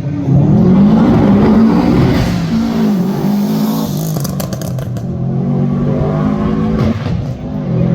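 Rally car engine revving hard, its note rising and dropping several times, with a short burst of sharp cracks about four seconds in.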